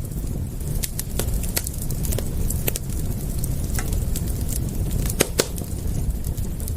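Wood fire crackling: irregular sharp pops and snaps, with a couple of louder ones about five seconds in, over a steady low rumble.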